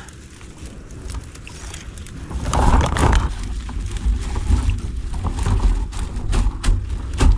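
Wind buffeting the microphone as a low rumble that swells about two and a half seconds in, with scattered sharp clicks and knocks in the second half.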